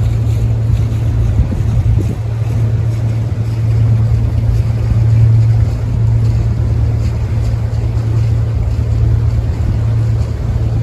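Dutch barge's engine running steadily with an even low drone.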